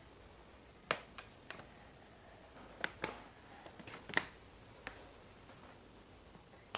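A few scattered small clicks and taps at irregular intervals, like objects being handled on a table.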